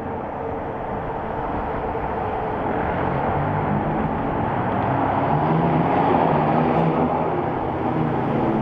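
Volkswagen Golf R Mk6's turbocharged four-cylinder engine running through a muffler-deleted exhaust, growing steadily louder.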